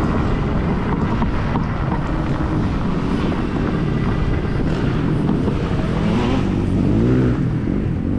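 A motor vehicle engine running steadily, with wind noise on the microphone; the pitch wavers a little near the end.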